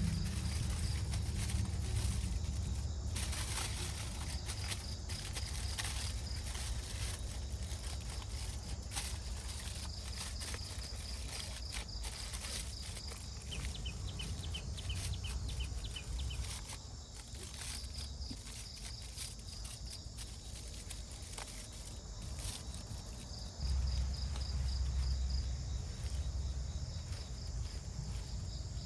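Insects chirping in repeated short, evenly pulsed trills, high-pitched, over a low rumble, with scattered small clicks and rustles. The rumble grows louder about three quarters of the way through.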